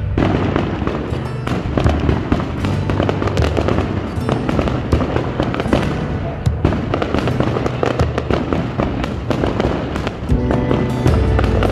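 Aerial fireworks display: shells bursting in quick succession, a dense run of bangs and crackles.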